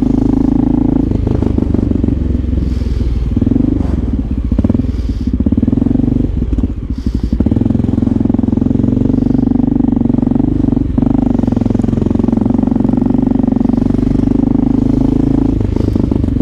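Motorcycle engine running steadily while riding. The note wavers and drops briefly about seven seconds in, as the throttle eases off, then settles back to a steady run.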